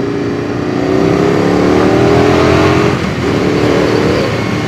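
An engine revving up under acceleration, its pitch rising steadily for about three seconds, dropping briefly, then climbing again.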